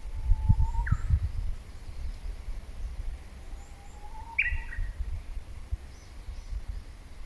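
Wild birds calling: a few short whistled calls, rising whistles and a sharper falling call about four and a half seconds in, with faint high chirps further off. A low rumble runs underneath, loudest in the first second and a half.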